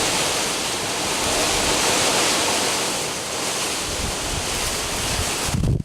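Steady rushing noise of hurricane wind and rain, cutting off abruptly near the end.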